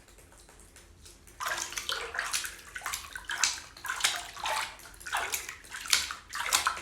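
Water splashing and sloshing in a run of quick, irregular splashes, starting about a second and a half in.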